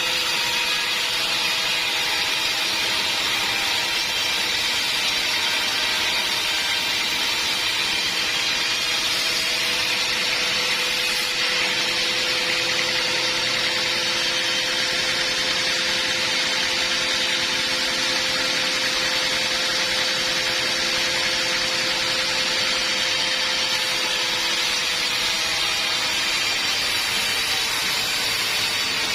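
Band sawmill running, its blade sawing through a log: a steady, even whine and hiss with a constant hum underneath.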